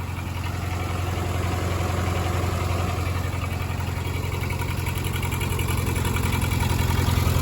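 1963 Case 310F bulldozer's diesel engine running steadily, growing gradually louder.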